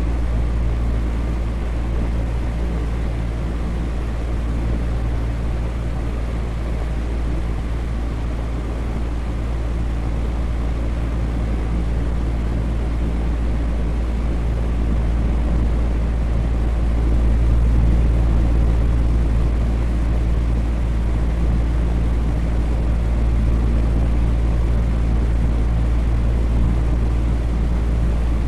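Electric fan running steadily: a low motor hum with even whooshing air noise that swells slightly and eases again.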